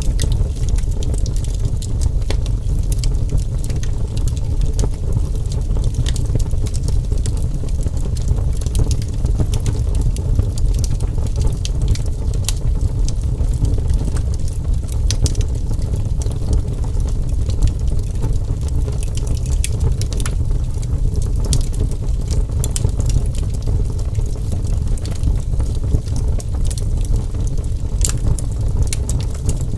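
Wood fire crackling: frequent sharp pops and snaps scattered over a steady low roar of flames.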